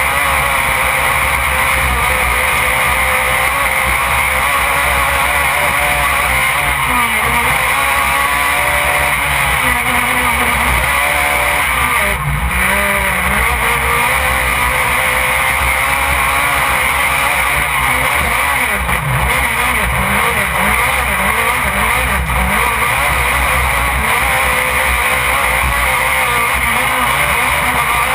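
Off-road race car's engine, heard from inside the cockpit, running hard as the car drives, its revs rising and falling again and again.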